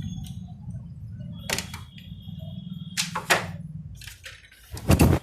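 Sharp knocks and clicks of a photocopier's heat fixing (fuser) unit being worked loose and pulled out of the machine, over a low steady rumble, ending in a loud heavy thump near the end.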